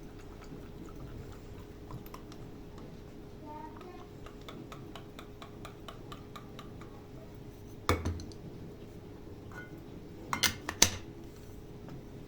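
Small objects being handled: a quick run of light ticks, then a sharp knock about eight seconds in and two louder clinks near the end, like dishes or utensils set down.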